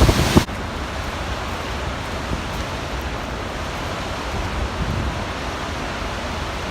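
Steady rush of the Gullfoss waterfall. A louder, fuller roar drops suddenly about half a second in to a quieter, even rush of falling water.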